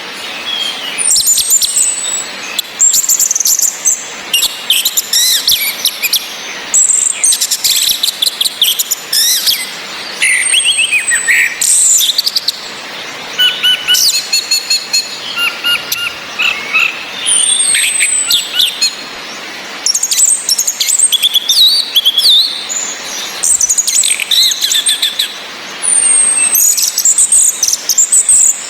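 Orange-headed thrushes singing: busy, varied song of quick high phrases, with a high falling whistle repeated about every eight or nine seconds. The song is a bird-keeper's lure meant to set a male that only twitters into full song. It plays over a steady hiss of rain.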